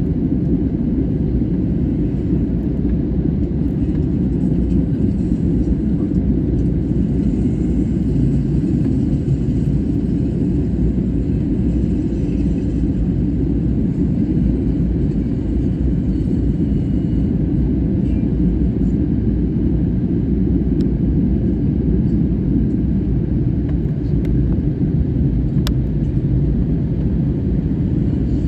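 Steady low rumble of a jet airliner, holding level without rising or fading, with a faint click near the end.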